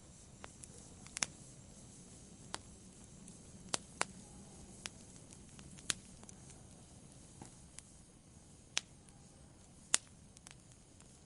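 Campfire crackling: irregular sharp snaps and pops of burning wood over a faint low hiss, the loudest snap near the end.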